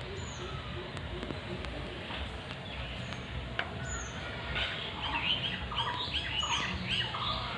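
Parrots chirping, sparse at first and then a rapid run of short repeated chirps from about halfway in, over a steady low background hum.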